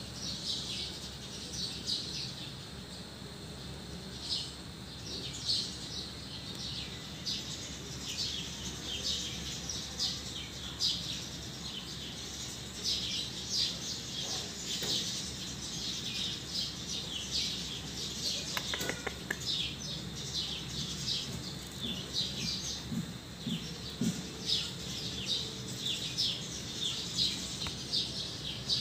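Many short, high chirps at an irregular pace, like small birds chirping, over a low steady hum.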